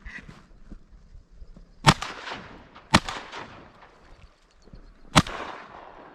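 Three shotgun shots from a Stoeger 3500 semi-automatic, the second about a second after the first and the third about two seconds later, each trailing off in an echo across open country.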